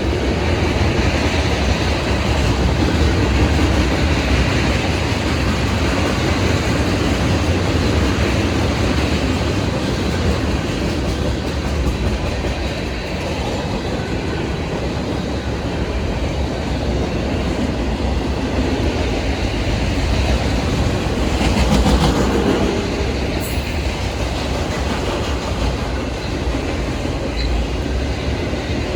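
Freight cars of a manifest train rolling past, steel wheels running steadily on the rails, with a louder swell about 22 seconds in.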